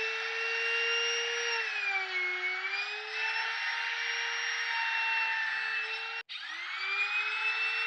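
Compact trim router running at full speed in a hand-planer base, cutting wood. Its high whine dips in pitch for a moment about two seconds in, and the sound cuts out for an instant about six seconds in.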